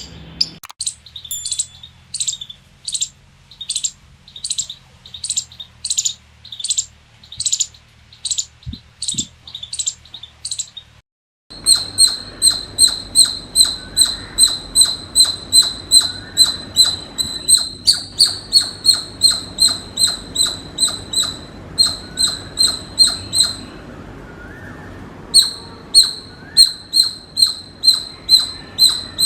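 Squirrel calling with short, high-pitched chirps repeated in a steady series, about one and a half a second. After a break about eleven seconds in, a faster run of about three a second follows, with a short pause near the end.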